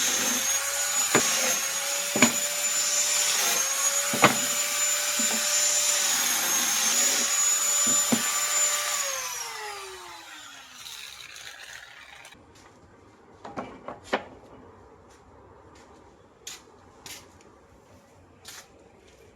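An electric power tool's motor runs steadily for about nine seconds, with a few sharp clicks, then is switched off and winds down in falling pitch. A few light knocks and taps follow.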